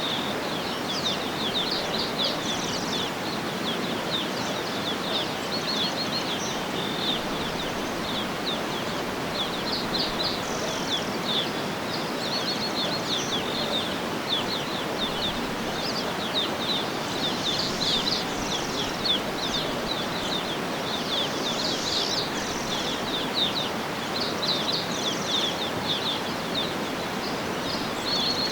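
Outdoor nature ambience: birds chirping and trilling almost without pause, high-pitched, over a steady rushing background noise.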